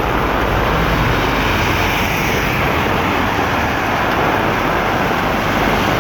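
Steady, loud rush of heavy rain with a low engine rumble underneath.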